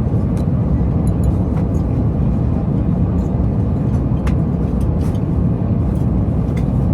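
Steady airliner cabin noise at cruise: the constant low rush of engines and airflow, with a few faint clicks over it.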